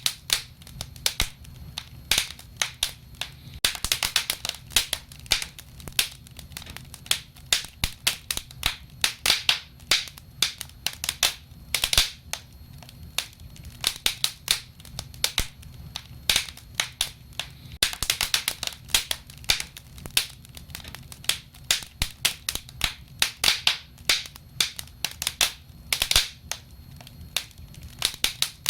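Wood fire burning, with irregular sharp crackles and pops over a soft low rumble of the flames; the crackling comes in denser flurries several times.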